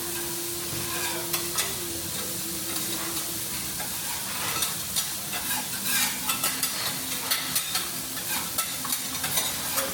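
Tiger prawns sizzling on a teppanyaki griddle: a steady frying hiss. From about halfway through, a run of sharp clicks and taps joins it.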